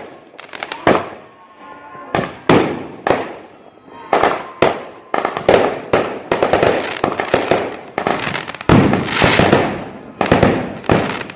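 Fireworks going off: a string of sharp bangs, spaced out at first and then, from about five seconds in, a dense rapid volley of overlapping bangs and crackle.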